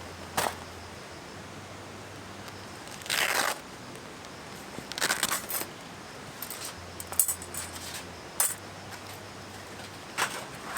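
A series of short clinks and clicks from small hard objects being handled, with a rustle about three seconds in, over a steady stream-like hiss.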